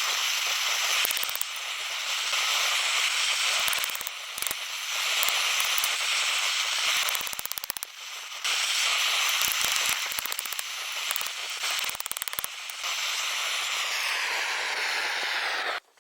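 Propane forge burner running with a steady hissing rush, broken several times by clusters of sharp crackling clicks. Its pitch sags slightly near the end before the sound cuts off suddenly.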